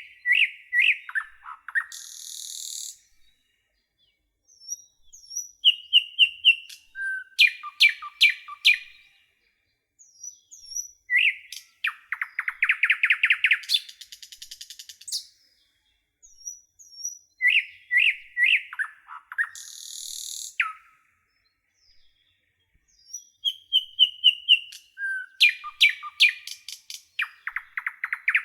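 A songbird singing repeated song phrases of high chirps, fast trills and a buzzy note. The phrases come about every five to six seconds, with short silences between them.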